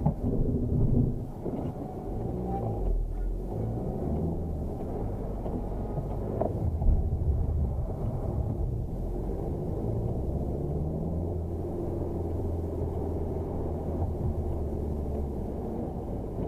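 Ford Focus engine heard from inside the cabin during a slalom run, its pitch rising and falling as it is revved and shifted through the gears.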